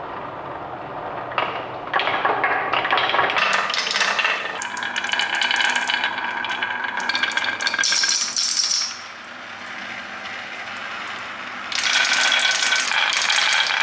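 Small hard toys rattling and clattering in a dense run of clicks. It grows loud about a second and a half in, eases off a little past the middle, and comes back loud near the end.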